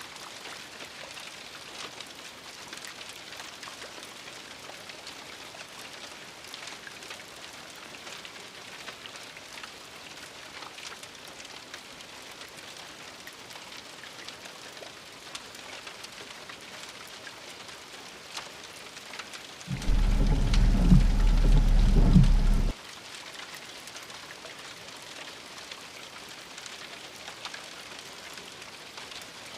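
Steady light rain falling, a fine even patter. About two-thirds of the way through, a loud, deep rumble cuts in abruptly, lasts about three seconds, and cuts off just as suddenly.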